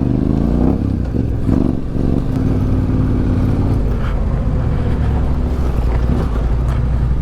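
Motorcycle engine running steadily, its pitch dipping and rising slightly in the first second, with the note settling afterwards. It is most likely the rider's own Yamaha Ténéré 700 parallel twin.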